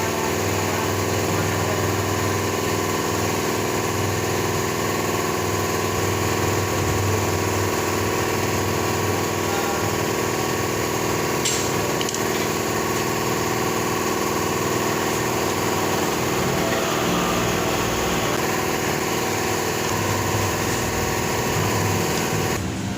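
Nissan Navara's engine running steadily at idle.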